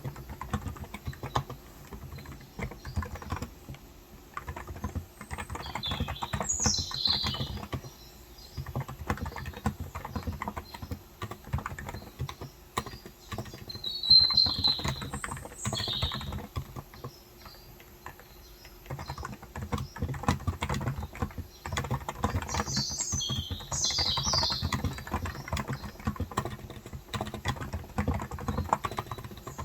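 Typing on a Cox Endeavour electrostatic capacitive keyboard with 35 g switches, a steady run of keystrokes with a brief pause a little past halfway. Birds chirp several times in short bursts over it.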